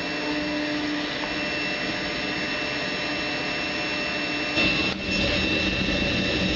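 A powerful blower or fan running steadily, blowing air at the closed dog door to simulate strong wind, with a high steady whine over the rush of air. It gets louder about four and a half seconds in.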